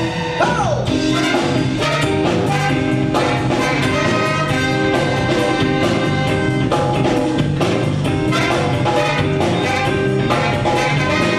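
A live band playing with a horn section of trumpet and trombone over drums keeping a steady beat.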